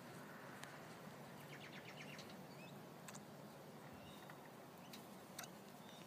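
Faint outdoor quiet with a few short, distant bird chirps and ticks, including a quick run of ticks about one and a half seconds in.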